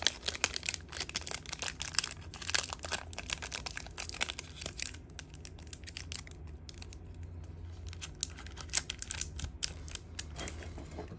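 Packaging being handled, crinkling and crackling in many quick little bursts that thin out after about five seconds, over a steady low hum.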